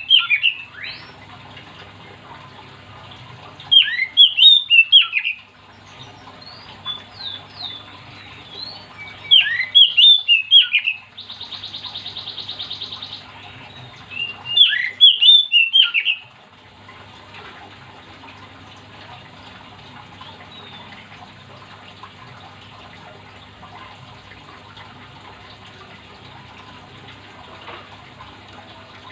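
Oriental magpie-robin (kacer) singing in four loud bursts of rapid whistled phrases, with a steady buzzy note of about two seconds between the third and fourth bursts. After about sixteen seconds the song stops, leaving a faint steady background with a few weak chirps.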